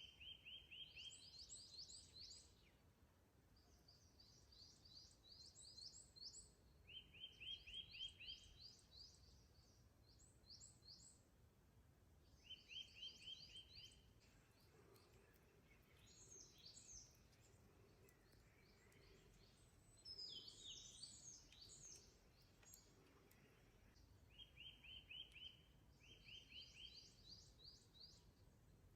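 Songbirds singing: one bird repeats short, fast trills of quick descending notes every few seconds, and a second bird gives more varied calls in the middle, over a faint background hiss.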